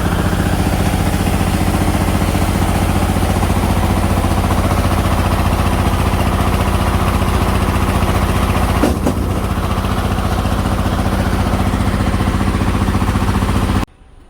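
An engine running steadily at idle, with a brief click about nine seconds in; the sound cuts off suddenly near the end.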